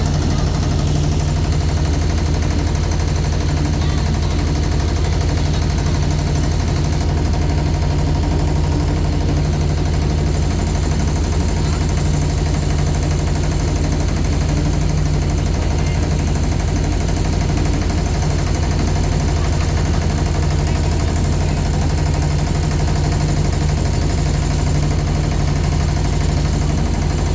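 A boat's engine running steadily at constant speed, a low chugging drone that does not change.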